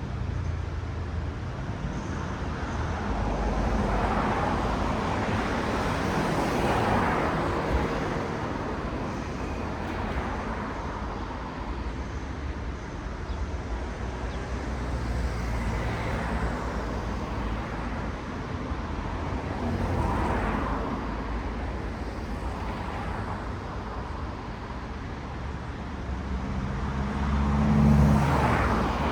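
Road traffic: cars passing one after another over a steady rumble, each rising and fading over a few seconds. The loudest pass comes near the end and carries a low engine hum.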